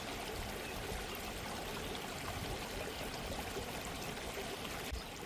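Gently running stream: a steady babble of flowing water.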